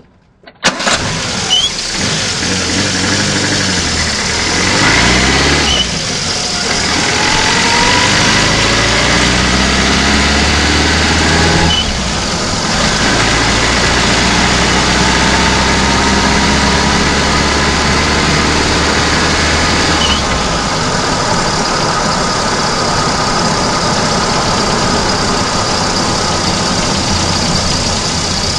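VAZ-2109's four-cylinder petrol engine heard close up from under the bonnet, cutting in loudly about a second in. Its pitch climbs steadily as the car pulls, breaks off and drops, then climbs again, and settles near the end.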